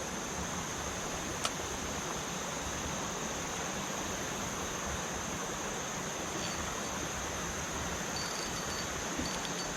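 Steady rush of river water flowing below a dam, with a continuous high-pitched drone of insects over it and one small click about a second and a half in.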